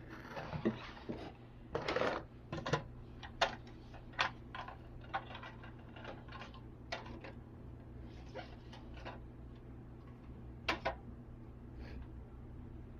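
Small plastic toy kitchen pieces being handled and set down: an irregular run of light clicks and clacks, with a rustle in the first couple of seconds. A low steady hum runs underneath.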